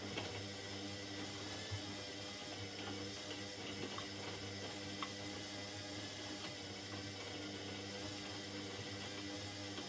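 Indesit 71252 washing machine with water running steadily inside it over a low, steady hum, and a few faint ticks.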